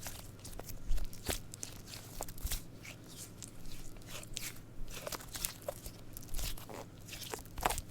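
Glitter cube squishy toy squeezed and pressed by hand, giving irregular crackly, crinkling squish sounds, with a louder one about a second in and another near the end.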